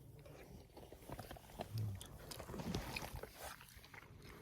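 A person eating rehydrated freeze-dried food from a spoon: faint small clicks of the spoon and soft chewing.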